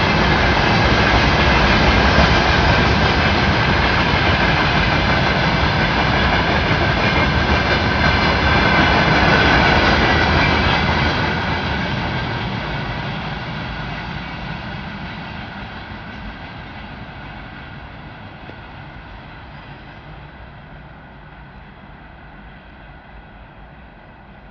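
Freight train wagons rolling along the rails through a station, a steady rumble with a faint ringing tone above it. About ten seconds in it begins to fade steadily as the train moves away.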